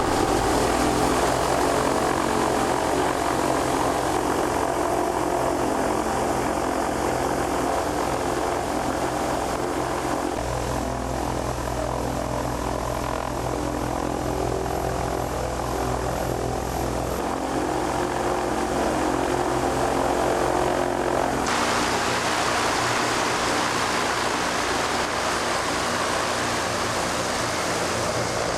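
Zeppelin NT airship's propeller engines running steadily, a droning hum with a propeller buzz. The tone changes abruptly three times.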